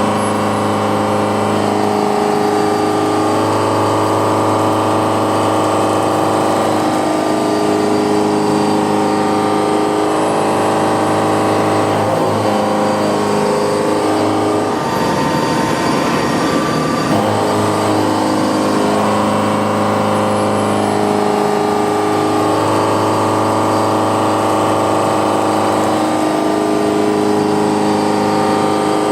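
Indexable milling cutter with tangential inserts cutting metal, a steady pitched machining tone with a rougher, noisier stretch about halfway through.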